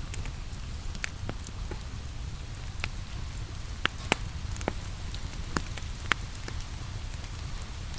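Wood fire crackling with scattered sharp pops, the loudest a few seconds in and again near six seconds, over a steady rain hiss and a low rumble.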